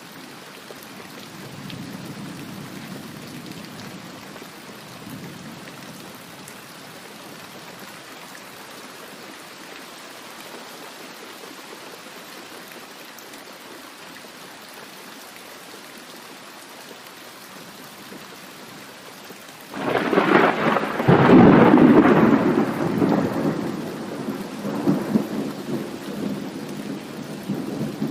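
Steady rain falling, with a soft distant rumble of thunder a couple of seconds in. About two-thirds of the way through a loud thunderclap cracks and rolls on in rumbles to the end.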